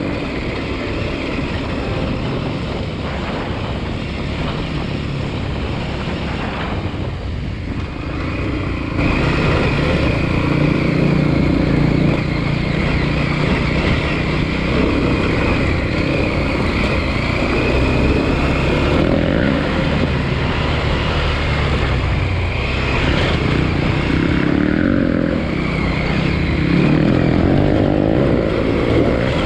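KTM 890 Adventure R's parallel-twin engine running as the bike is ridden along a dirt trail, its note shifting with the throttle. It gets louder about nine seconds in.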